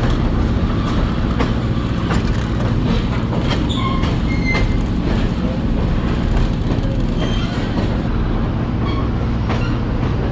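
Passenger train cars rolling along the track: a steady rumble, with wheels clicking over rail joints and a few short wheel squeals.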